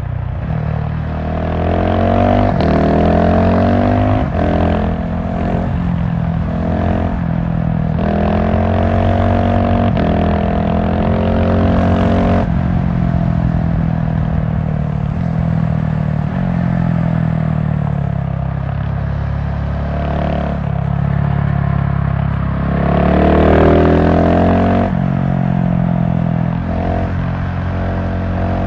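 GasGas SM700 supermoto's single-cylinder engine under way, revving up again and again, with the pitch dropping sharply at each gear change or roll-off of the throttle, over a rush of wind noise.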